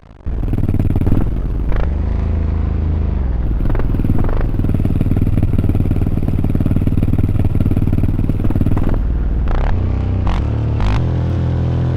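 Dirt bike engines running loud and close, starting abruptly about a quarter second in, with a few sharp clattering clicks.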